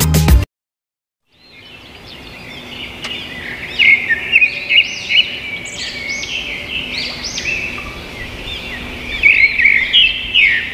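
Birds chirping, many short rising-and-falling calls overlapping over a faint hiss, fading in after a moment of silence and growing louder partway through.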